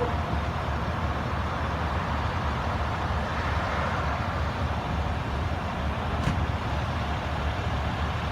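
Steady low rumble of a vehicle engine and road noise, with one short click about six seconds in.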